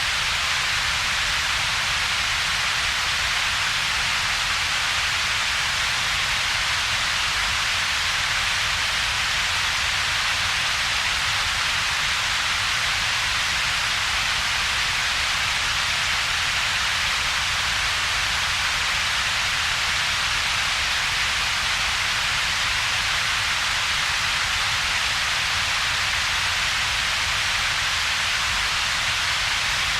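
Synthetic double-peaked noise: a steady, unchanging hiss with most of its energy in a bright band around two to four kilohertz, plus a weaker low rumble, with a gap in between.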